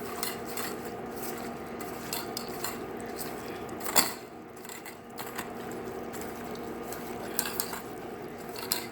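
Shrimp being mixed with seasonings in a dish: repeated small clicks and scrapes against the dish, with one louder knock about four seconds in, over a faint steady hum.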